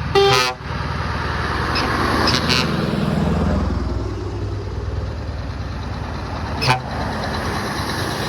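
Heavy lorries driving past with a deep diesel engine rumble that swells about three seconds in as one goes by. A short horn toot sounds near the start.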